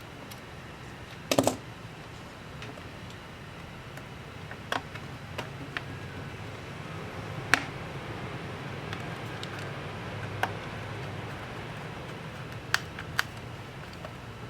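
Scattered sharp clicks and taps of small tools and laptop parts being handled during a MacBook Pro repair, the loudest a short rattling cluster about a second and a half in, over a low steady hum.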